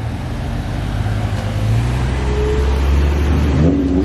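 Car engine running under throttle as it pulls away, its revs rising near the end.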